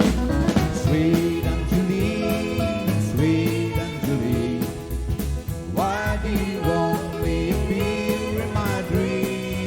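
Country band music: a full band with drums, bass and guitars playing a slow song, with notes that slide up in pitch.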